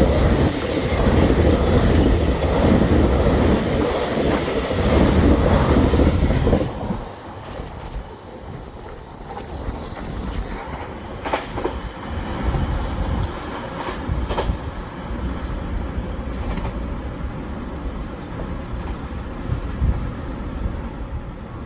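Train passing at speed on the track beside the platform, with a loud rolling rumble and wheel clatter. The noise drops suddenly about seven seconds in as the last car goes by, then a quieter rolling sound trails off with occasional sharp clicks from the rails.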